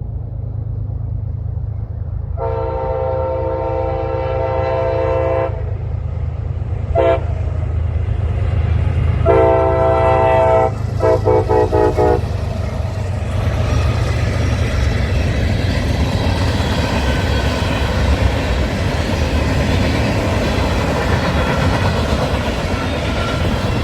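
A diesel train approaches with its engine rumbling low and sounds its multi-tone horn: a long blast, a short one, then another long blast that breaks into a few quick stuttered toots. After that the train passes close by, and the noise of its wheels on the rails rises and stays loud.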